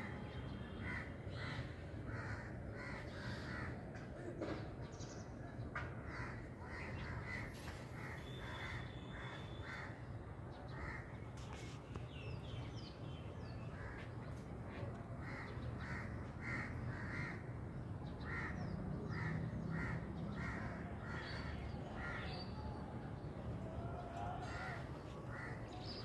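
Birds calling outdoors in bouts of short, repeated calls, two or three a second, breaking off and starting again several times, with a few fainter, higher chirps. A steady low hum lies underneath.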